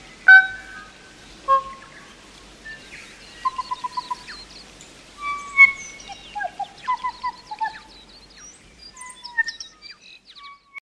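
Forest songbirds singing: a varied run of clear whistled notes, quick trilled phrases and short clicks, with the loudest notes just after the start and about halfway through.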